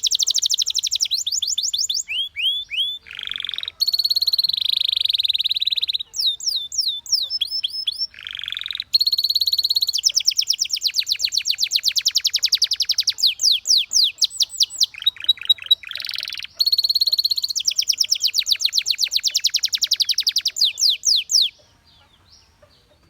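Domestic canary singing a long song of rapid trills: fast runs of repeated notes, each run at its own pitch and speed, switching to a new run every second or two. The song stops near the end.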